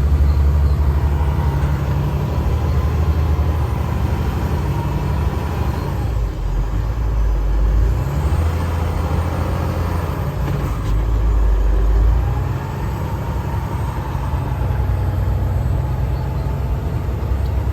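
Car-hauler truck's engine running as it drives, a steady low drone that drops to a deeper note twice, around six and eleven seconds in.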